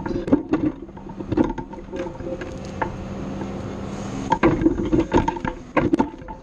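Irregular knocks and clanks from a loader's grapple as it handles its load, coming in clusters, with the machine's engine running faintly underneath.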